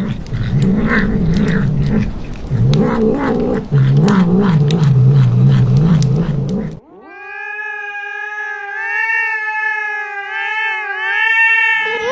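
Cat caterwauling: a low, warbling yowl for about the first seven seconds, then one long, higher yowl held steady for about five seconds.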